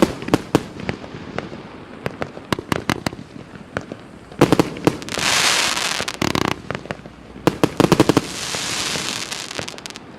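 A 124-shot firework cake battery firing in 1-inch and 1.2-inch calibres: a quick run of sharp bangs as shells launch and burst. About four seconds in and again about seven and a half seconds in, a dense volley goes off, each followed by a second or two of loud hiss.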